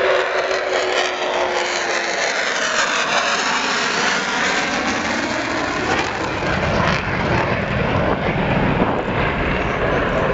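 Avro Vulcan XH558's four Rolls-Royce Olympus turbojets in a loud jet flypast, the sound sweeping in pitch as it passes, with a deep rumble strengthening in the second half.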